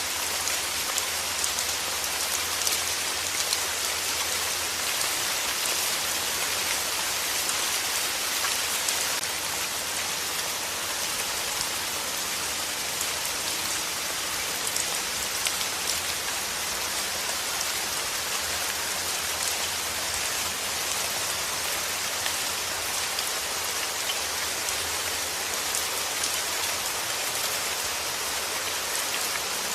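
Steady rain falling on a surface: a dense, even hiss of drops with fine individual patters.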